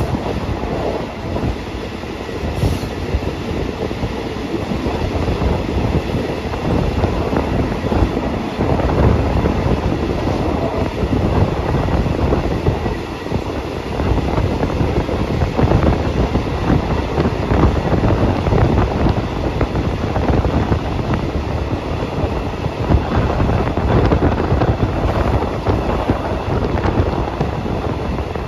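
Passenger train running along the line, heard from on board: a steady rumble with the wheels knocking over the rails.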